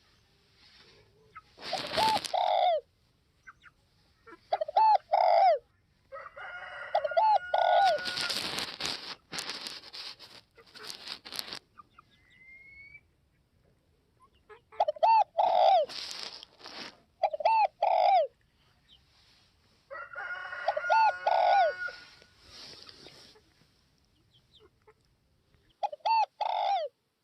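Spotted dove cooing in short phrases of two or three low, rounded coos, repeated about six times with pauses between. Another bird's call overlaps twice, and there are a few short bursts of noise.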